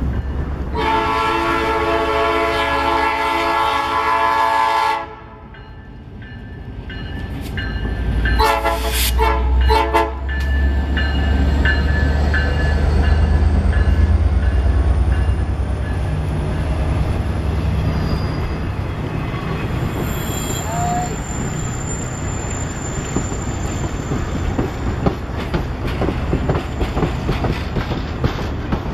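Diesel locomotive air horn sounding a chord of several notes, first one long blast, then after a short gap a few quick short blasts: the warning for a road grade crossing. The locomotive's engine then rumbles past, followed by the steady rolling clatter and clicking of freight and passenger car wheels over the rail joints.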